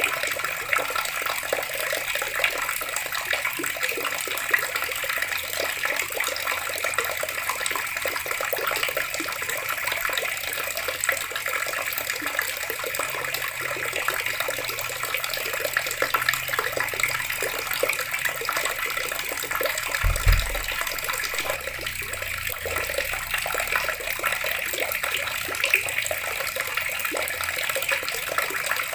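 Water running steadily from a tap, an even splashing stream. A single low thump about two-thirds of the way through.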